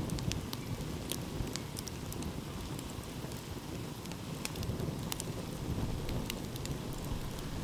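Wood campfire crackling, with frequent small sharp pops and snaps over a steady low rumble.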